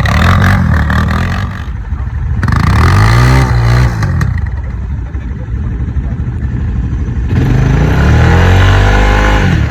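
Quad bike engines running and revving, the pitch rising and falling twice: about two and a half seconds in and again near the end.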